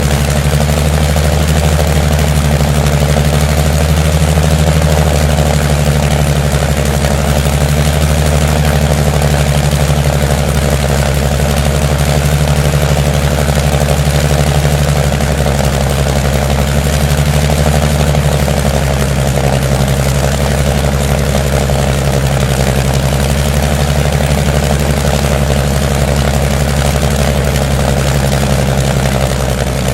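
An engine running steadily at idle, an even low hum that holds one pitch throughout.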